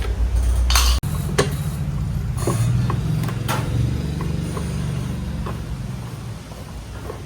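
A machine's motor running with a low hum, with scattered sharp metallic clicks and knocks; the hum fades near the end.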